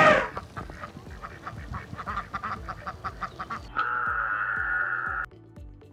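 A quick run of short, repeated animal calls, then about four seconds in a steady held tone for about a second and a half.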